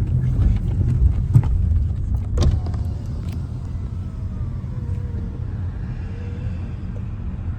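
A car's engine and road rumble as it rolls slowly along, a steady low drone with a couple of sharp knocks early on.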